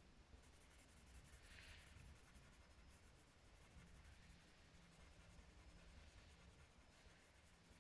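Near silence, with the faint scratch of a wooden coloured pencil drawing on card.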